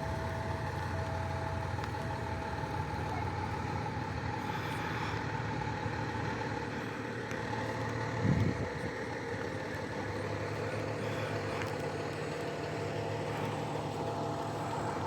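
A vehicle engine running steadily at idle, with a short low knock about eight seconds in.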